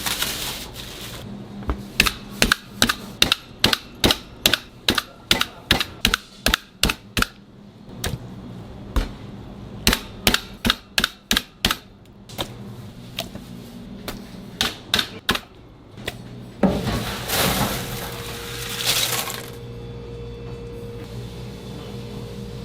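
Knife chopping on a cutting board in quick regular strokes, about two or three a second, in several runs with short pauses. Near the end the chopping gives way to a few seconds of hiss and a steady faint hum.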